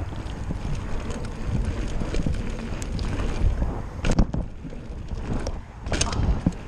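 Bicycle ride over a bumpy, muddy dirt track: wind buffets the microphone over a steady low rumble, with small rattles and knocks from the bike. There are two louder clatters, about four and six seconds in.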